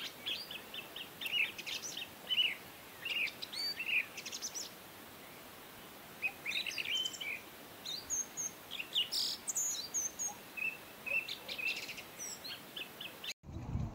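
Small birds chirping and calling, many short high chirps with a brief lull midway; the sound cuts off abruptly near the end.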